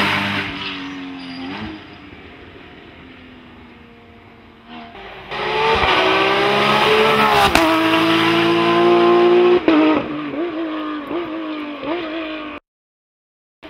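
Porsche flat-six race car engine at full throttle on a hill climb: one car fades away at the start, then another comes in loud, its pitch climbing through two upshifts, followed by several quick throttle-blipped downshifts. The sound cuts off abruptly about a second before the end.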